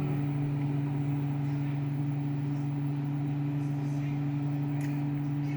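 Microwave oven running: a steady, unchanging electrical hum with the whir of its fan, partway through a one-minute heating cycle.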